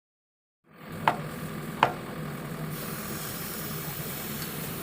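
Diesel engine running steadily, with two sharp knocks shortly after the sound begins.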